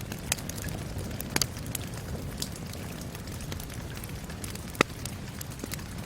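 Steady rain hiss with a wood fire crackling over it: scattered sharp pops, a quick double pop about a second and a half in and the loudest single pop near five seconds.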